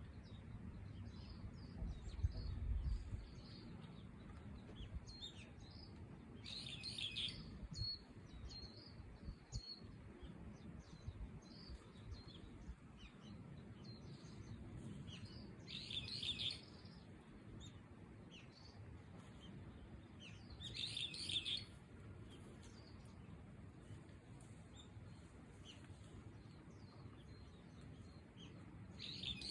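Small songbirds calling with short, high chirps throughout, broken by four louder bursts of calling, each about a second long. A low rumble comes about two seconds in.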